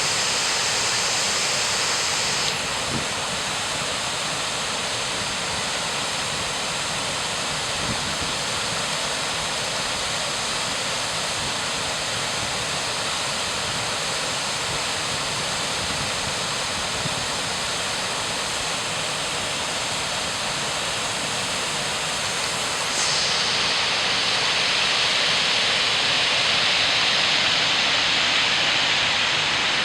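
Steady hiss of rain falling, even and without pauses. It drops slightly about two and a half seconds in and grows louder and brighter at about 23 seconds.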